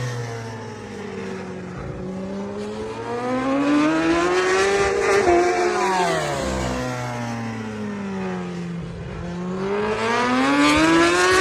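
Endurance-racing superbike engines at high revs. The pitch climbs to a peak and drops away twice, about five seconds in and again near the end, while another engine's note falls underneath.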